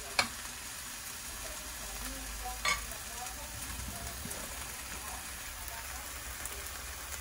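Seasoned deodeok root strips sizzling steadily in a frying pan, with two brief sharp knocks, one just after the start and one about two and a half seconds in.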